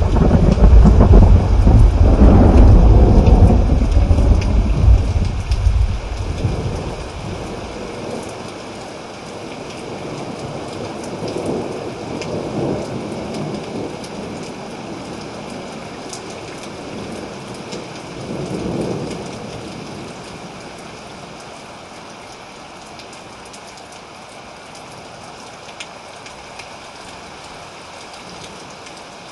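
Thunderstorm with steady rain. A long, deep roll of thunder dies away over the first several seconds, two fainter rumbles follow about 12 and 19 seconds in, and then the rain alone goes on more quietly.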